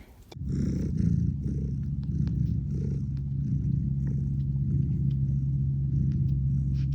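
Domestic cat purring steadily and close up, a low, even rumble that starts about half a second in.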